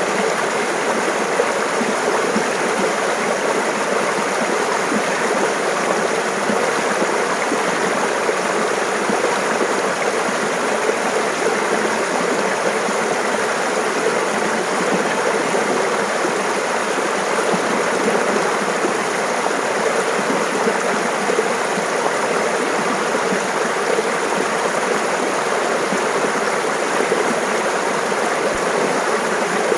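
Steady rush and babble of a mountain stream flowing over rocks, even throughout with no breaks.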